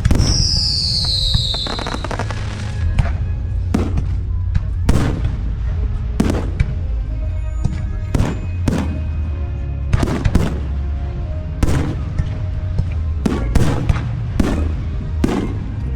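Aerial fireworks bursting in a steady barrage, sharp bangs coming about one to two a second. Near the start a firework whistle glides downward in pitch for about a second and a half.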